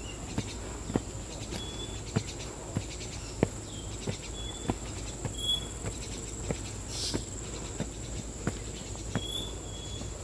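Rainforest insects keep up a steady high-pitched drone, broken by short high chirps. Over it, footsteps fall at an even walking pace, about one step every half second or so.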